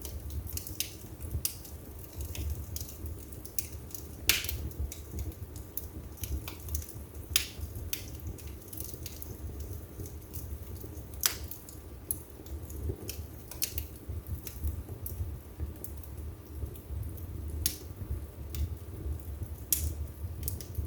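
Wood fire burning in a fireplace: irregular crackles and sharp pops from the burning logs over a steady low rumble of the flames, with the loudest pops about 4, 7 and 11 seconds in.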